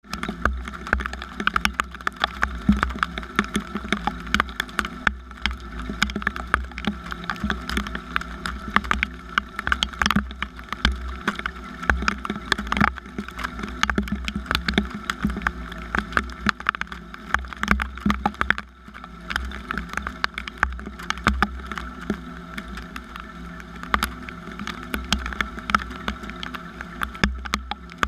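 Rain falling, with drops tapping irregularly and densely on a nearby surface over a steady low rumble.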